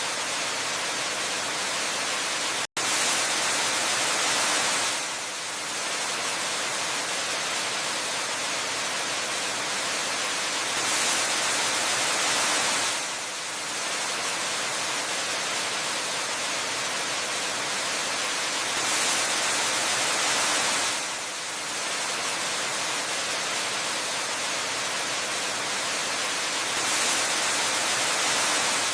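Waterfall water rushing in a steady, even hiss that swells a little about every eight seconds. It cuts out for a split second about three seconds in.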